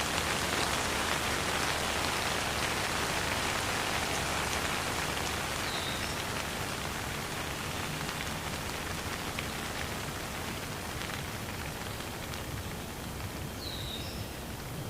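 Steady rain falling, a dense even patter of drops on surfaces that eases slightly toward the end.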